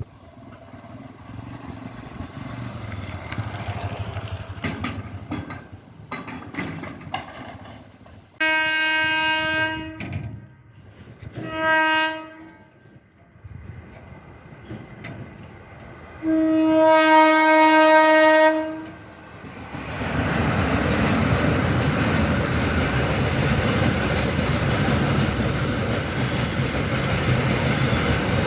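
Freight train approaching a level crossing, sounding its horn three times, a long blast, a short one and a long one, as the crossing warning. About two-thirds of the way in the train reaches the crossing and the wagons pass in a loud, steady noise.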